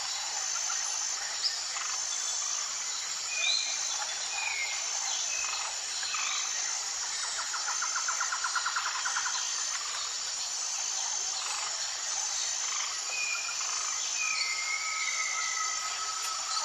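Tropical rainforest ambience: a steady high insect drone with a pulsed insect note repeating about every second and a half, over which several birds call in short slurred whistles. About halfway through one bird gives a rapid trill, and near the end another holds a long level whistle.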